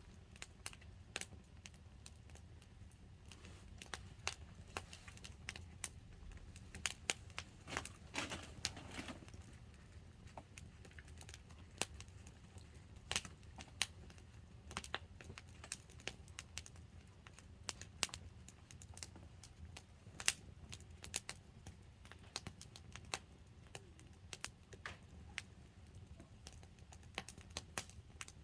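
Wood campfire burning, crackling with irregular sharp snaps and pops over a low steady rumble.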